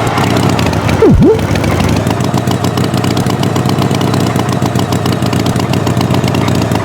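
Engine running with a rapid, steady chugging pulse. About a second in there is a quick swoop in pitch that falls and then rises.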